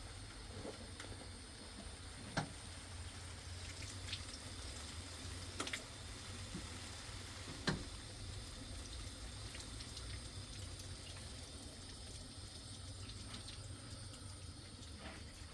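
Faint, steady water-like noise, with a few light clicks or knocks scattered through it.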